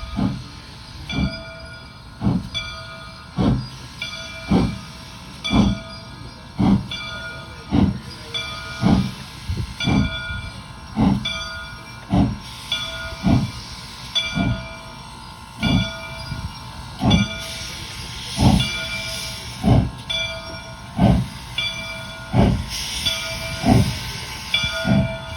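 Train wheels clicking over rail joints in a steady, even rhythm, about two clicks a second, with a hiss that swells twice, the second time near the end.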